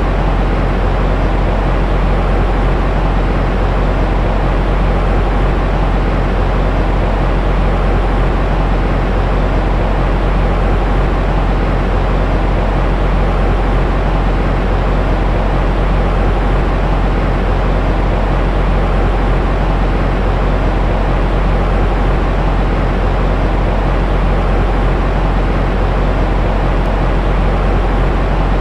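Steady synthetic noise for baby sleep, strongest in a deep low rumble and thinning toward the highs, unchanging throughout.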